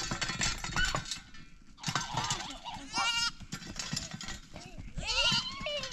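Livestock bleating: a short wavering call about three seconds in and another near the end, with knocks and shuffling noise around them.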